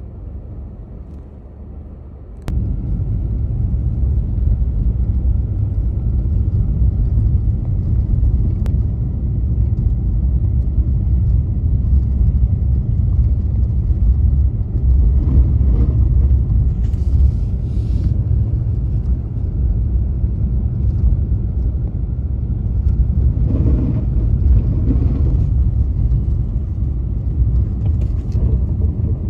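Car driving on snowy streets: a steady low rumble of engine and road noise. About two and a half seconds in there is a click and the rumble suddenly gets louder, and a few short swells of hiss come and go later.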